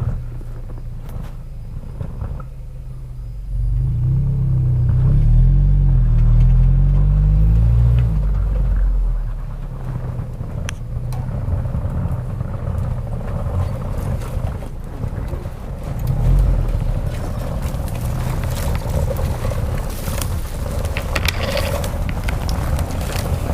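Off-road SUV engine straining on a steep snowy climb. It revs up and down hard from about four seconds in, settles, then surges again briefly midway.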